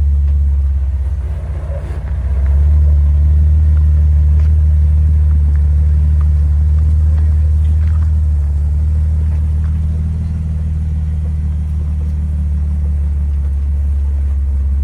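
Jeep engine running with a steady low rumble, which eases briefly about two seconds in and then picks up again as the vehicle crawls over rock.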